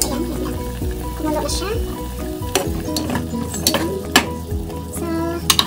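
Chicken adobo boiling in a pot, bubbling and sizzling, while a ladle stirs it and knocks sharply against the pot several times in the second half, loudest about four seconds in.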